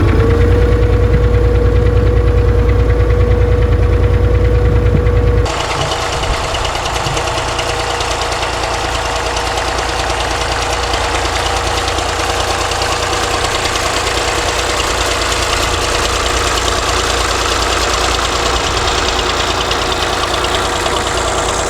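Sixty-year-old diesel tractor engine running steadily under load while plowing snow in creeper gear, with a steady whine over the diesel clatter. About five seconds in the sound changes abruptly, losing much of its deep rumble.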